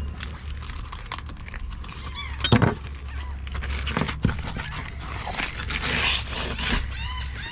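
Birds calling in short, arched honks, a few near the middle and several in quick succession near the end, over a steady low rumble. About two and a half seconds in comes a single loud knock.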